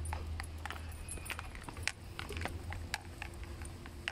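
Raindrops striking close to the microphone as a rain shower starts: irregular sharp ticks, several a second, over a steady low rumble.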